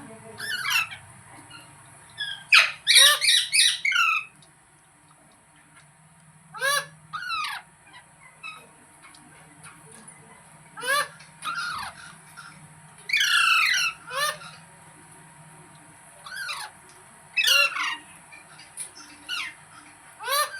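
Rose-ringed parakeet giving harsh screeching calls in short bouts every few seconds, with a quick run of four or five calls about three seconds in. A faint steady high hiss runs underneath.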